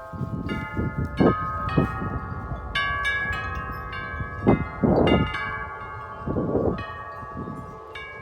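Several large tuned wind chimes ringing in gusty wind, with many overlapping strikes that keep ringing on. Wind buffets the microphone in gusts, briefly rumbling about half a second in, near the middle and again later.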